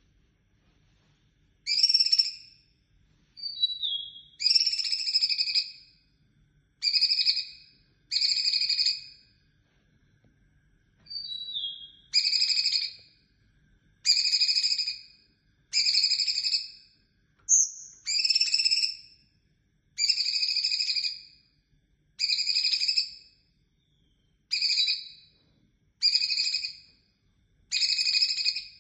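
Cucak cungkok songbird calling: a steady series of loud, harsh notes about a second long, repeated roughly every two seconds, with a few short falling whistles between them.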